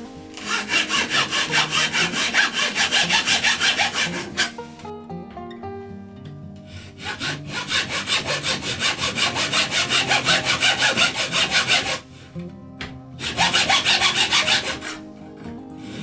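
Quick, even rasping strokes in three runs, about five or six strokes a second, like a hand saw cutting through wood, over background music.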